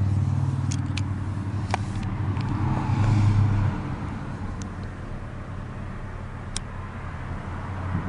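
Lamborghini Gallardo LP570-4 Superleggera's V10 idling steadily, with a few light clicks and knocks over it; the engine sound drops a little about four seconds in.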